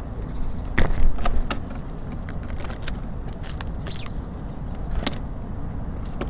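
Irregular sharp taps and clicks of small birds pecking at seeds on a bird feeder, the loudest cluster about a second in, over a steady low rumble of city traffic.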